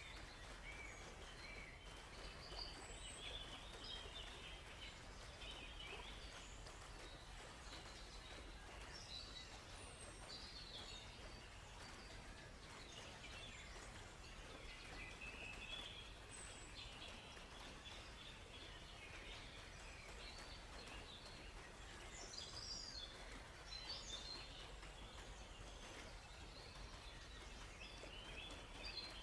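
Faint forest birdsong: several birds giving short chirps and trills scattered throughout, over a soft steady background hiss.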